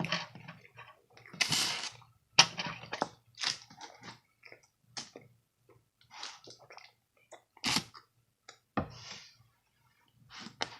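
A person chewing and biting food close to the microphone: a run of uneven, wet crunching bites and chews with short pauses between them.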